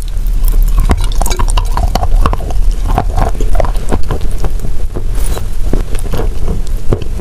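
Close-miked crunching and chewing of a bite of wet chalk mixed with cookie and creamy paste: a rapid run of sharp crunches over a steady low rumble.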